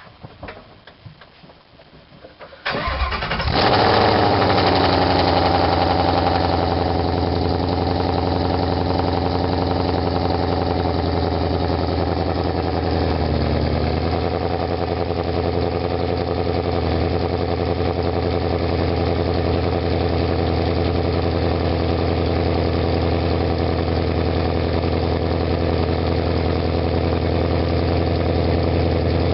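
2017 Ford Mustang GT's 5.0-litre V8, breathing through BBK headers, a 3-inch off-road connection pipe and MBRP cat-back exhaust, starting about three seconds in with a brief flare in revs, then settling into a steady, loud idle.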